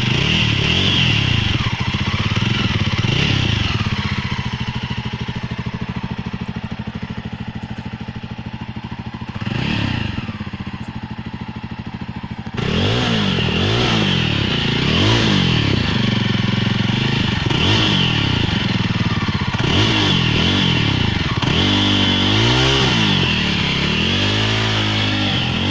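Jawa Perak motorcycle's single-cylinder engine idling through its exhaust, with one short blip partway through. About halfway in it gets louder and is revved repeatedly in quick throttle blips, each rising and falling, coming faster near the end.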